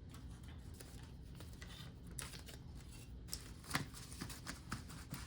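Paper banknotes being handled and sorted for counting: faint rustles and soft flicks of the bills, scattered and more frequent in the second half.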